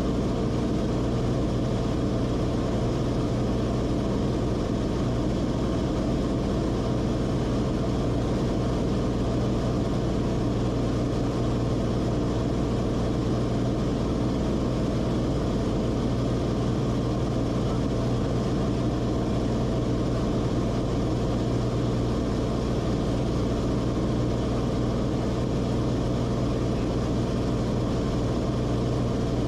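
Cessna Corvalis TTX's turbocharged six-cylinder Continental TSIO-550 engine and propeller droning steadily at constant power, with a low hum that holds one pitch.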